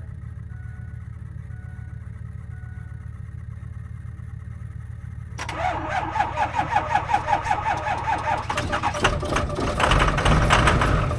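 School bus engine turned over by its starter: a rhythmic cranking of about six beats a second that starts suddenly about five seconds in and grows heavier without the engine catching, after soft repeated beeps over a low hum. The bus fails to start without a boost, which the owner puts down to a battery run low from the bus not being run enough.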